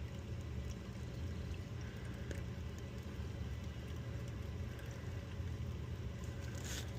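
Water flowing down a freshly cleared air-conditioner condensate drain line after flushing, over a steady low hum.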